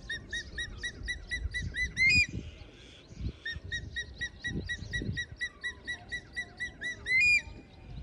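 A bird calling: two runs of short, evenly repeated notes, each quickening and ending in one loud rising call, over a low rumble.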